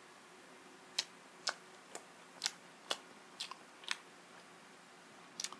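Close-miked chewing of a mouthful of fried sausage: sharp, wet mouth clicks about twice a second, with quiet gaps between them.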